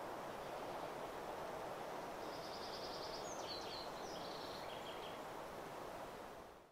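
Steady wind through forest trees, with a small bird trilling and then chirping a few times from about two seconds in. The sound fades out at the very end.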